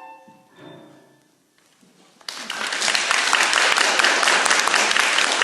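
The last notes of the music die away, and after a short pause audience applause starts suddenly a little over two seconds in and carries on.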